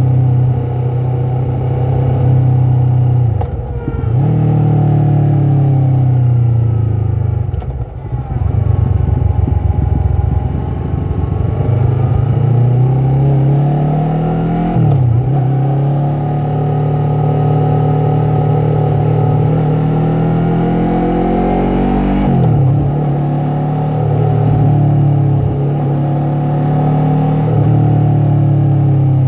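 Yamaha MT-03 motorcycle engine and exhaust under way, revs rising and falling, with sharp drops in pitch about three times as gears change.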